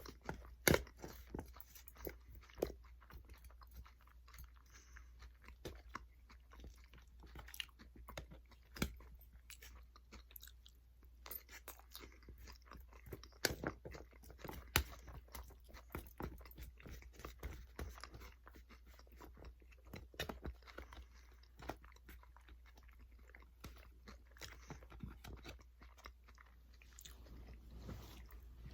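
A person chewing and biting food close to the microphone: irregular crunches and wet mouth clicks.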